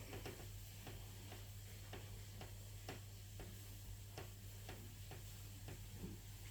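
36-inch D.E.M.C ceiling fan running, with a faint steady hum and a light, even tick about twice a second.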